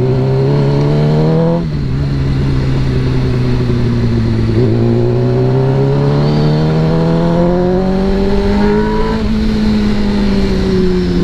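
Yamaha sport motorcycle's engine heard from the saddle while riding. Its pitch climbs, drops sharply about a second and a half in as it shifts up a gear, climbs steadily for several seconds under acceleration, then eases off near the end, over a rush of wind noise.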